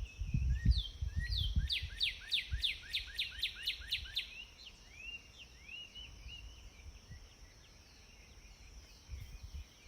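Bird song: a fast run of about a dozen down-slurred notes, some four a second, followed by softer rising chirps. Low thumps sound under it in the first two seconds.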